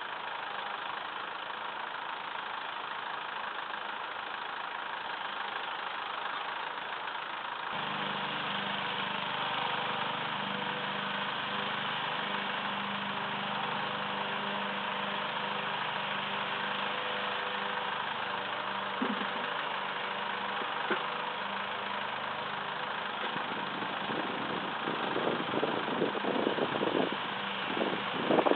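Massey Ferguson 2635 tractor's diesel engine running steadily. About eight seconds in, its note picks up and holds stronger. In the last few seconds, irregular knocks and clanks sound over it.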